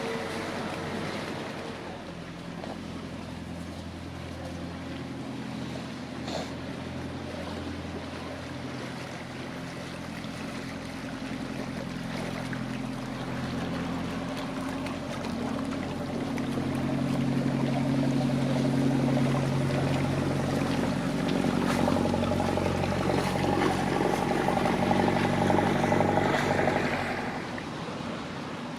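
A boat's engine running at low revs as it passes close by, a steady hum that grows louder through the second half and drops away near the end.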